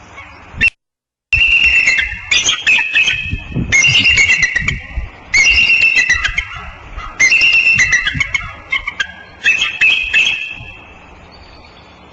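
Bald eagle calling: high, thin whistled chittering in about five bouts of rapid notes, each a second or two long, fading away near the end.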